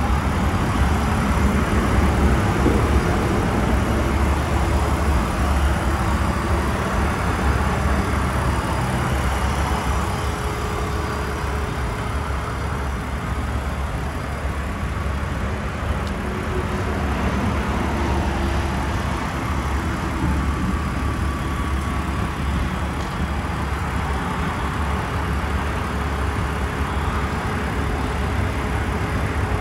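2002 BMW Z3 3.0's straight-six engine running steadily, a low drone with a faint note that shifts slightly in pitch now and then.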